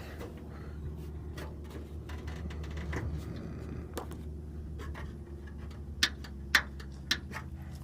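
Steady low hum with a few light handling noises, then three sharp clicks or knocks about six, six and a half and seven seconds in, as the Cessna 172's landing-gear strut and wheel area is checked by hand.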